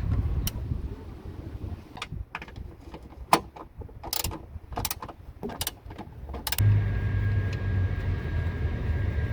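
A run of sharp clicks and knocks from metal parts being handled. About six and a half seconds in, a steady low drone starts abruptly: a car engine running at idle.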